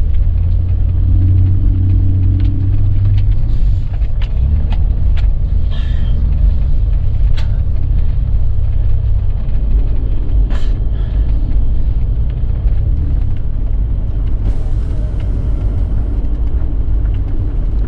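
Vehicle engine running with a steady low rumble, a little stronger for the first few seconds, with a few faint clicks.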